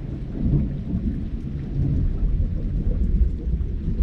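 Thunder rumbling low and continuously through heavy rain, with scattered raindrop ticks.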